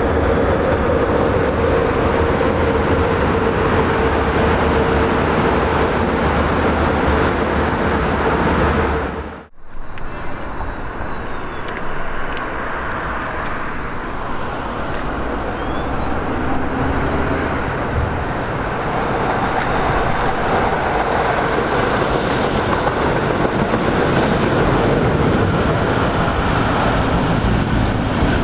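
DB Class 111 electric locomotive running past with a steady hum over rail noise, cut off abruptly about a third of the way in. Then a locomotive-hauled passenger train approaches and rumbles past close by.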